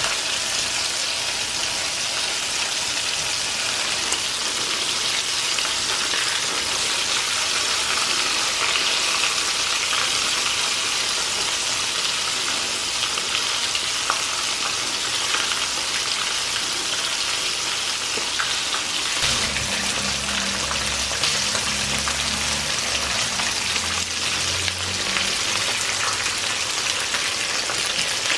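Flour-dredged chicken pieces frying in hot vegetable oil in a skillet: a steady dense sizzle and crackle with scattered small pops. A low rumble joins for several seconds past the middle.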